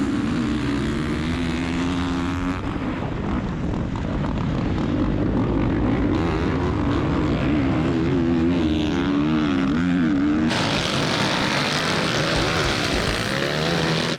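Motocross bike engines revving, their pitch repeatedly rising and falling as the riders work the throttle. About ten seconds in there is an abrupt cut to a harsher, noisier stretch of engine sound.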